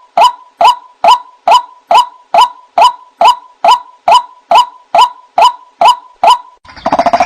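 White-breasted waterhen (ruak-ruak) calling a steady, even series of short, slightly falling "wak" notes, a little over two a second. Near the end a faster, overlapping chatter of calls breaks in.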